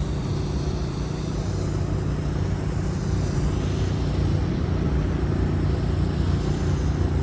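A steady low engine hum, running evenly without revving.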